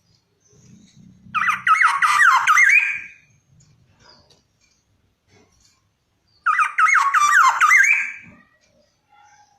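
Black-naped oriole (kepodang) calling in two bursts about five seconds apart. Each burst lasts about two seconds: a quick run of sliding notes ending in a longer note.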